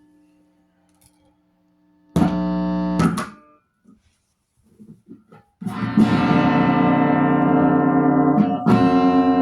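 Guitar being played: a chord rings about two seconds in and another a second later, then after a short pause steady strumming begins a little past halfway and carries on.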